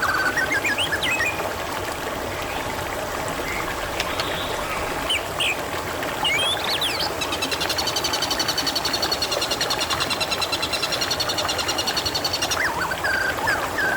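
Water trickling steadily, with birds chirping over it and one long rapid trill lasting about five seconds in the second half.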